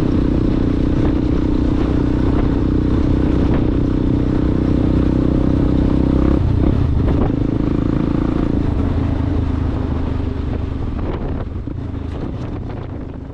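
Yamaha Ténéré motorcycle with an aftermarket Coyote exhaust running steadily under way; about six seconds in the engine note drops to a lower pitch, and the sound fades near the end.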